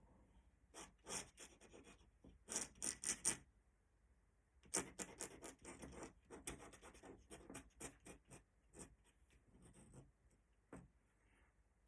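Pen scratching on paper in quick, short strokes while drawing in Indian ink, the strokes coming in bursts with a short pause about four seconds in.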